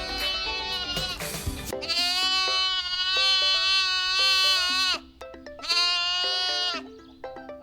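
Sheep bleating three times, long wavering calls with the middle one the longest, over light background music with short plucked notes.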